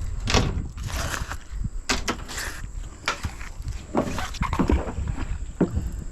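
Irregular knocks and clinks from a strong magnet loaded with nails being handled in a kayak, about seven sharp strikes spread across a few seconds, over a steady low rumble.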